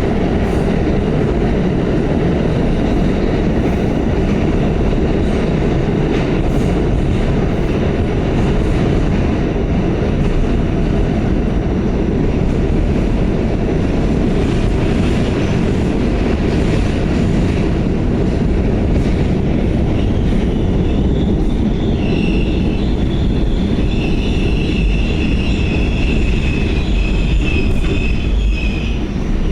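Pullman-Standard R46 subway car running at speed, a steady loud rumble and clatter of wheels on rail. About two-thirds of the way through, the wheels begin squealing in high tones that last until near the end.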